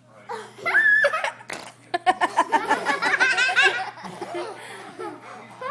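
High-pitched laughter: a short squeal about half a second in, then a quick run of giggles that fades out after about four seconds.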